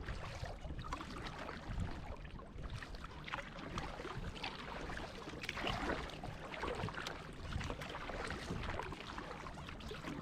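Water splashing and lapping around a small homemade kayak, with irregular louder splashes every second or so.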